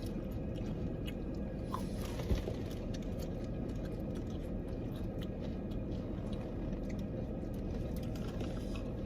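Close chewing and crunching of crispy fried chicken wings: many small crunches and mouth clicks over a steady low hum.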